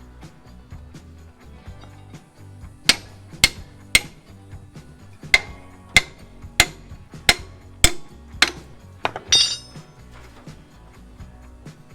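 A hammer striking metal about ten times in an uneven rhythm, each blow a sharp ringing clang, with a short metallic rattle near the end. Background music runs underneath.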